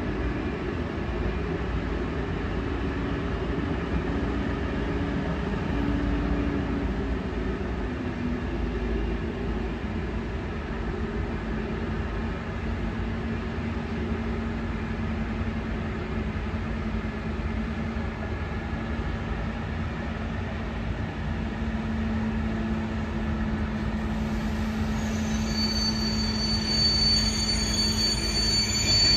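Diesel locomotives of an engineering train running as they shunt slowly along the tracks: a continuous low rumble with a steady engine drone. About 25 seconds in, a high, steady squeal of wheels on rail joins in as the wagons roll past.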